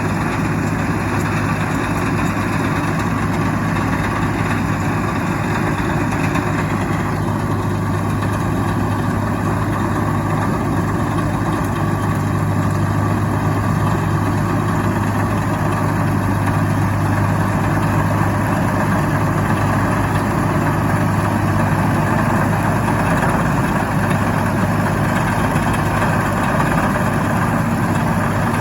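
Tractor diesel engine running steadily at a constant pitch, with no change in speed.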